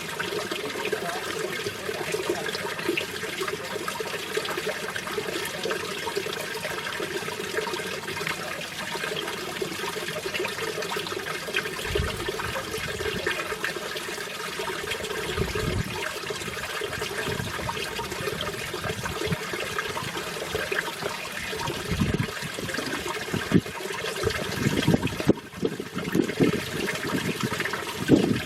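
Mountain valley stream flowing over rocks: a steady rushing and splashing of water, with a few short low rumbling bumps in the second half.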